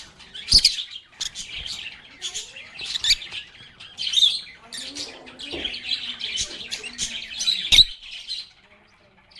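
Pet lovebirds chirping and squawking in quick, dense bursts, with a few sharp knocks, the loudest just before a short lull near the end.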